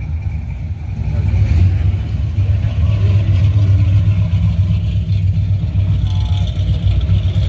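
Classic car engines running with a steady, deep low exhaust note.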